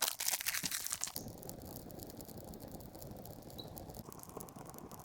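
Firewood and its packaging being handled: crinkling, tearing and wooden clattering, busiest and loudest in the first second, then softer rustling with scattered clicks.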